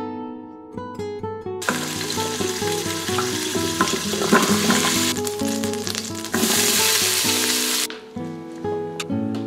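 Food frying in hot oil in an Instant Pot's stainless inner pot: potatoes and carrots, then beef being stirred. The sizzle starts about a second and a half in and cuts off suddenly shortly before the end, over acoustic guitar background music.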